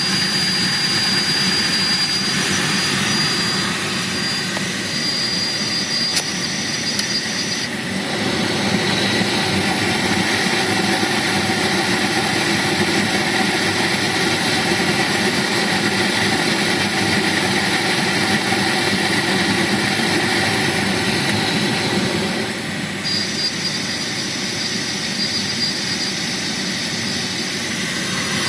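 Skoda Octavia A5 heater blower fan running with a steady rush of air and a thin high whistle on top. The whistle drops out about eight seconds in and returns near the end. The whistle is the fan fault the video sets out to cure.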